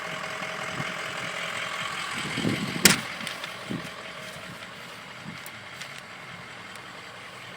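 Truck engine idling steadily, with one sharp click about three seconds in.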